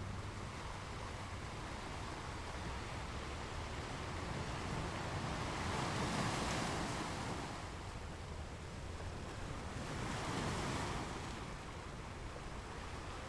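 Sea waves breaking on a shore, two waves swelling in and washing out about four seconds apart over a steady rush of surf.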